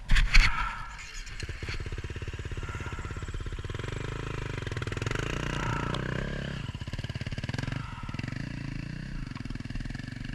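Dirt bike engine running on a trail at varying throttle, its note rising and falling with short drops in power about seven and eight seconds in. A loud sudden noise comes right at the start.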